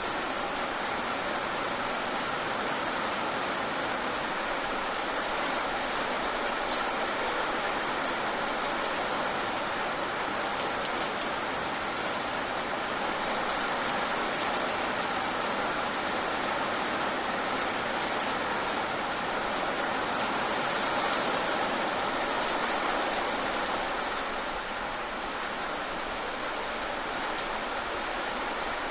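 Steady rain falling, with the fine patter of individual drops.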